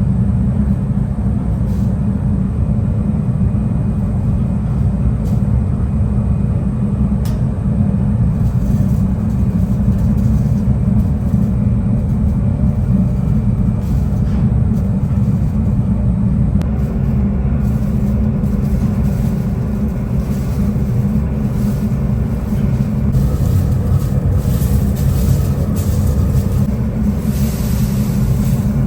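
Steady, loud low rumble of heavy factory machinery, with a few faint clicks and knocks and some added hiss near the end.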